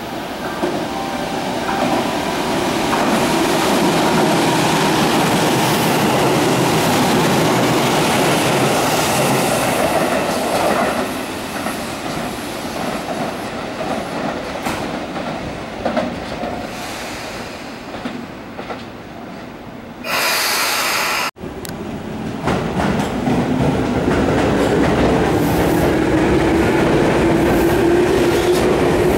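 Electric train running along the rails, wheels rumbling and clacking, loudest early and then fading away. After a sudden cut, another electric train's motor whine rises steadily in pitch as it gathers speed.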